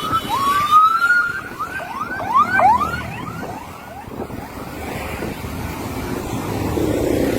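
Mountain-bike brakes squealing: a run of short rising squeals that come quicker and shorter, then die away about halfway through.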